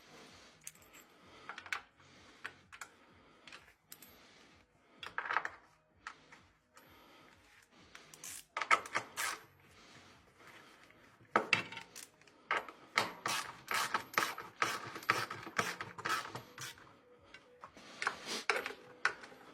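Irregular clicks, knocks and clinks of tools and metal parts being handled during washing machine assembly, with a fast run of rapid clicks from about 13 to 17 seconds in and another short flurry near the end.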